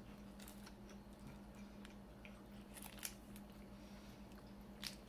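Faint closed-mouth chewing of a chocolate-coated layered wafer bar, with a few soft crunchy clicks, the most distinct about three seconds in and near the end, over a low steady hum.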